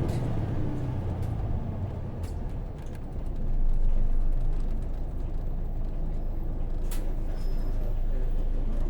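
Hino PJ-KV234L1 city bus's 6HK1 six-cylinder diesel heard from inside the cabin, running steadily under way with a low rumble that swells briefly a few seconds in. A few sharp rattles or clicks from the body sound through it.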